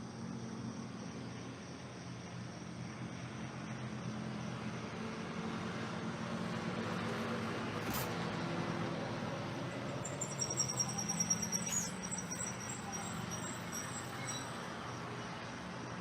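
A motor vehicle passing, its low engine hum and road noise swelling through the middle and easing off, over insects chirping; a high, rapid trill of insect calls stands out for a few seconds after the middle.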